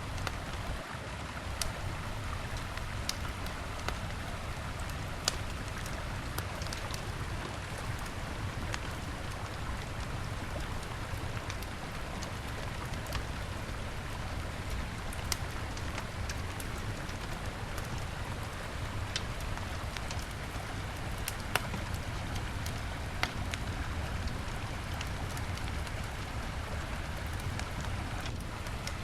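Wood fire crackling with scattered sharp pops every second or two, over the steady rush of a river.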